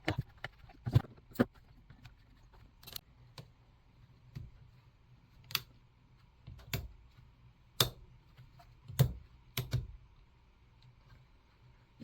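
Irregular sharp clicks and light knocks of small metal parts and hand tools being handled while a chainsaw's handle is put back together, about a dozen over the stretch, with the loudest near the start and in the last third.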